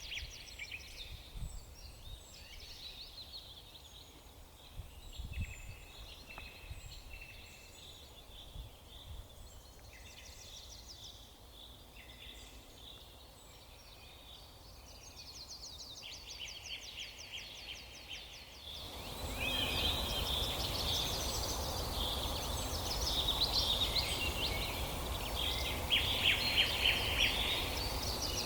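Several songbirds chirping and trilling over a steady background hiss; about two-thirds of the way through, the hiss grows louder and the bird song becomes denser.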